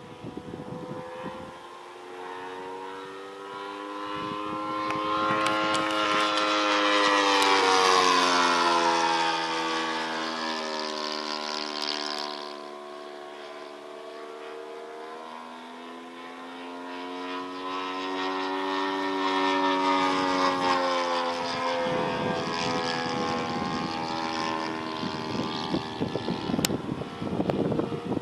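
Saito FG-14 four-stroke gasoline engine of an RC model airplane in flight, driving a three-blade propeller. Its drone grows louder and rises in pitch, then drops as the plane passes close by, twice.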